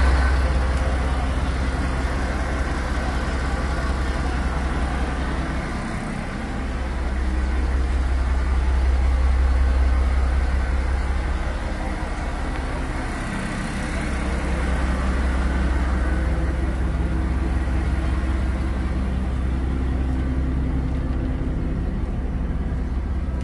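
Diesel railcar in motion: a steady low rumble of engine and running noise, with a couple of brief dips in the rumble.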